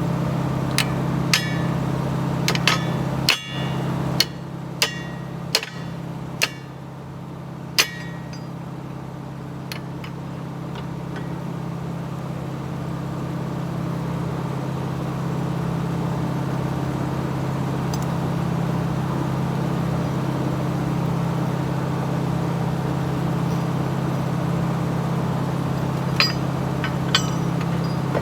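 Excavator's diesel engine running steadily, with a run of sharp metal clanks in the first eight seconds and two more near the end.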